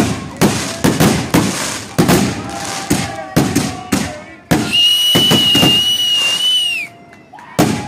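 Consumer fireworks going off: a rapid run of sharp bangs, about two a second, then a shrill whistle held for about two seconds that dips in pitch as it ends, with a few bangs over it, and more bangs near the end.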